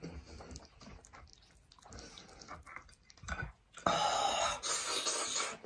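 Wet mouth sounds of a person chewing and smacking on braised sheep's head meat. About four seconds in there is a louder, noisy stretch lasting a second or two.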